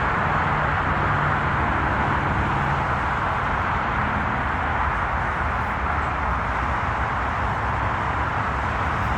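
Steady highway traffic noise: a continuous rush of tyres on the road with a faint low engine hum underneath.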